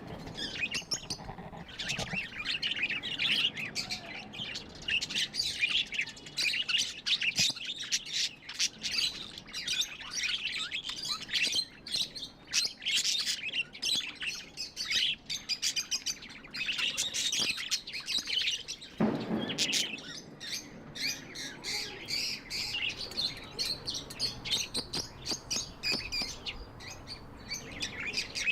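A flock of pet budgerigars chattering, a continuous warble of quick chirps and tweets. A brief low thump or rustle comes about two-thirds of the way through.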